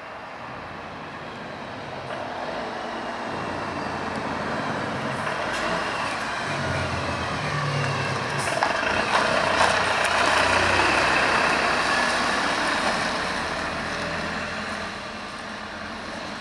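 A heavy vehicle passes by, its noise swelling to a peak about ten seconds in and then fading, with a low hum near the loudest part.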